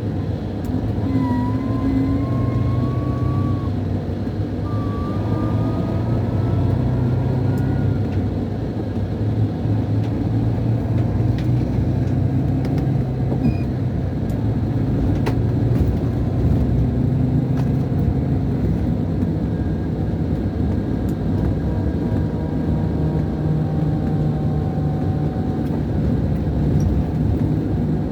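Scania K440 coach's DC13 inline-six diesel running steadily on the road, heard from inside the coach. A high whistle rises slowly in pitch over the first several seconds.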